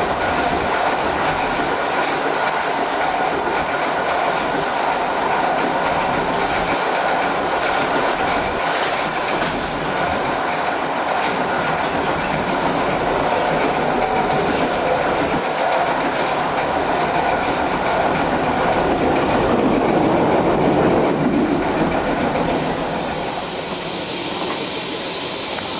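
Passenger train of Bhp carriages hauled by steam locomotive GWR 5521 running on the rails, with wheels clicking over rail joints and some wheel squeal. Near the end a high steam hiss starts.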